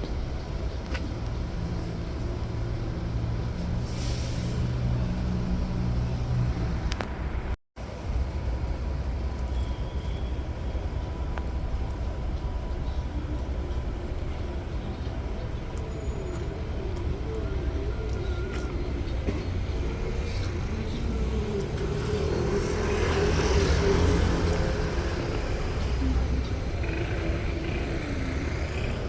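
Busy city street traffic: the engines of buses and cars running and passing in a steady low rumble, louder around a vehicle passing about 23 seconds in. The sound drops out for a split second about eight seconds in.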